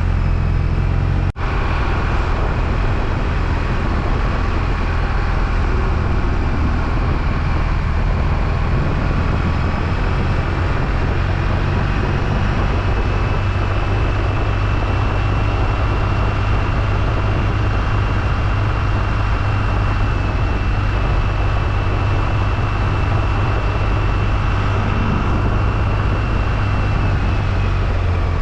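BMW R1250RT's boxer-twin engine running steadily under way, with a constant road rumble and a thin high whine that rises slightly and fades near the end.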